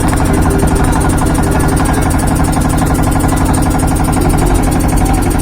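A steady, loud engine-like drone that holds even throughout, with a fast regular pulse.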